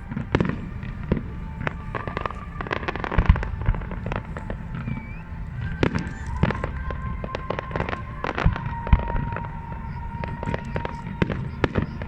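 Fireworks display: a rapid, irregular run of bangs and crackles, with the loudest reports about three, six and nine seconds in, over steady music.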